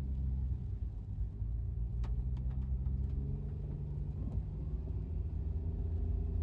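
Car engine and road noise heard from inside the cabin while driving: a steady low rumble with an engine hum, and a few light clicks about two seconds in and again past the middle.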